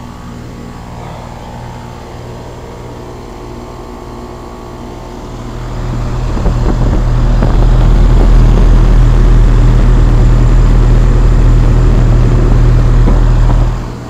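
2001 Trane XE1000 Weathertron heat pump's outdoor unit running with a steady compressor and fan hum. From about five or six seconds in, a much louder low rumble swamps it for about eight seconds and then stops abruptly.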